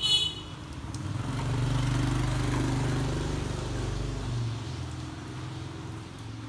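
A motor vehicle passing on the road: a low engine hum that swells over the first couple of seconds and fades away by about five seconds in. A short high beep sounds right at the start.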